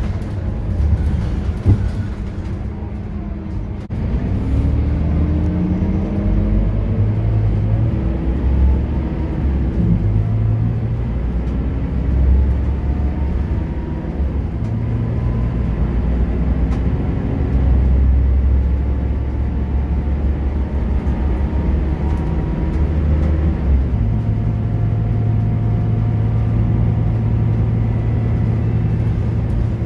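Scania K230UB bus's diesel engine and ZF automatic gearbox, heard on board while the bus drives. The engine note climbs about four seconds in and changes pitch several times as it pulls through the gears, then settles to a steady drone near the end. A faint high whine runs underneath.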